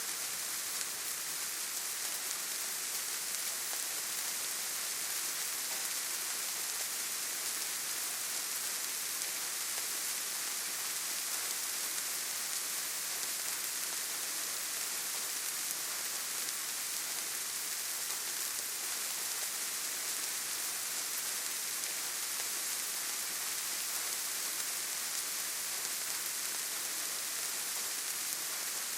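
Steady rain falling on leaves and forest ground, an even hiss with no distinct drops or changes.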